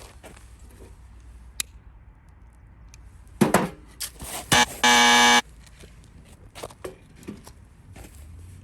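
A few knocks and rustles, then a loud buzzing tone lasting about half a second, a little over halfway through.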